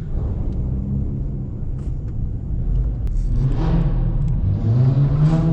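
Car engine running with a low rumble, then revving up twice, rising in pitch and getting louder about three seconds in and again near the end.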